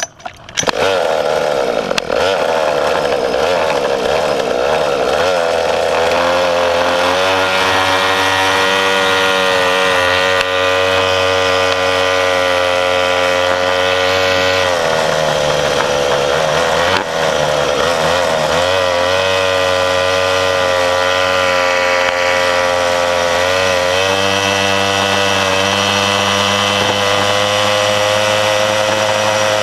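A mini bike's small engine running under throttle, its pitch dropping and climbing again several times as the rider eases off and opens it back up. It comes in suddenly about half a second in.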